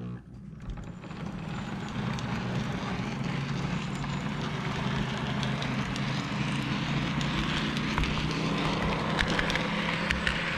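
HO scale model train running on its track: a steady electric motor hum under the rattle of wheels on rail, with scattered small clicks. It grows louder over the first two seconds, then runs on steadily.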